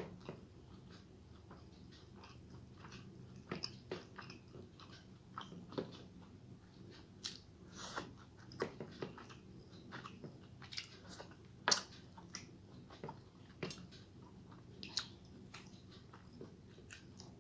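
A person chewing mouthfuls of rice and curry eaten by hand, with short, irregular mouth clicks and smacks. The sharpest comes about twelve seconds in.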